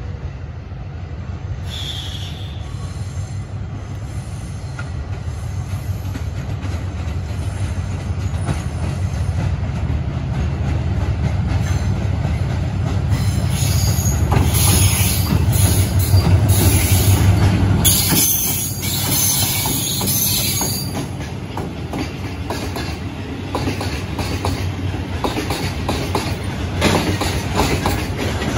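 DF200 diesel-electric freight locomotive approaching and passing, its engine drone growing louder to a peak about halfway through, with high wheel squeal. Near the end the loaded cement tank wagons roll by, their wheels clicking over the rail joints.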